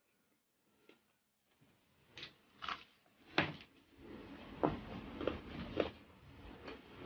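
Close-up chewing and crunching of crispy deep-fried pork knuckle skin. After a quiet moment come a few sharp crunches about half a second apart, then from about four seconds in a denser crackling with more crunches as the crispy pieces are chewed and handled.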